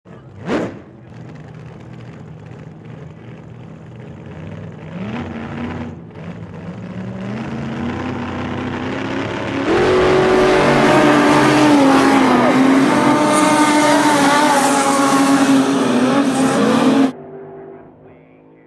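A race car engine accelerating, its pitch climbing over several seconds, then running loud at high revs before cutting off abruptly near the end. A short whoosh comes at the very start.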